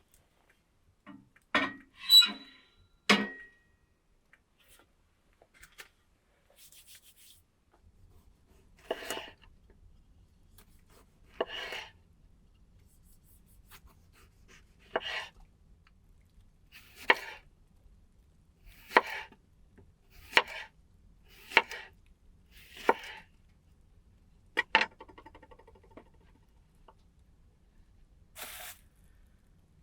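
Slow chopping with a blade on wood: single strikes about every one and a half to two seconds, after a few sharper knocks near the start.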